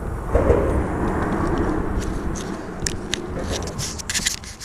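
Wind buffeting the microphone in a heavy rumble that slowly eases, with a quick run of sharp ticks and clicks over the last two seconds.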